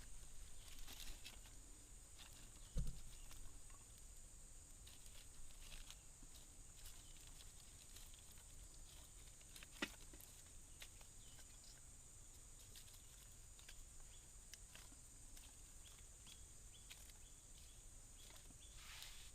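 Near silence: a faint steady high hiss, with scattered light clicks and a soft thump about three seconds in.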